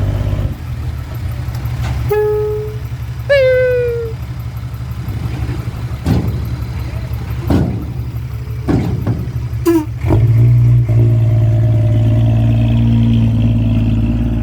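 A heavy vehicle's diesel engine running steadily, growing louder about ten seconds in. Two short pitched tones sound over it about two and three seconds in, the second falling in pitch.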